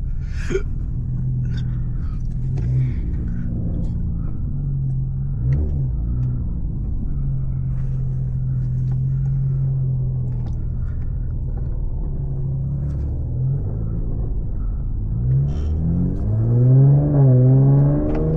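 Infiniti Q50's engine and exhaust droning steadily while driving. Near the end it revs up and down and gets louder.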